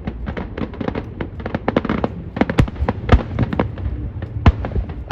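Aerial fireworks going off in a fast barrage: a dense run of sharp bangs and crackles, several a second, over a low rolling rumble, with a few louder booms standing out.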